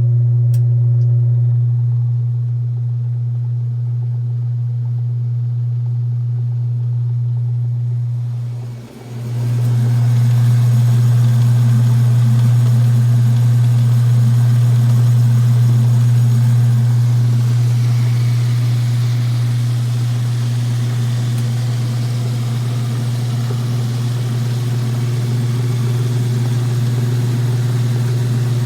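Whirlpool direct-drive washer in spin, its motor giving a loud, steady low hum. About nine seconds in the hum dips briefly, then comes back with a rougher, noisier sound over it: the strange noise midway through spin that is traced to the motor strap.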